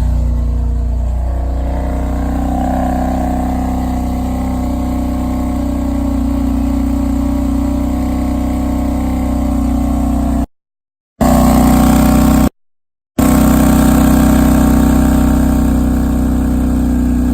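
BMW F80 M3's twin-turbo inline-six, fitted with catless downpipes, idling steadily just after a cold start. The sound cuts out completely twice for under a second, about ten and twelve and a half seconds in.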